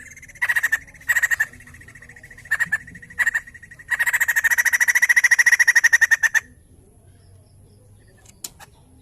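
White-crested laughingthrush (poksay jambul) giving rapid rattling chatter: several short bursts, then one long fast rattle of about two and a half seconds that stops about six and a half seconds in.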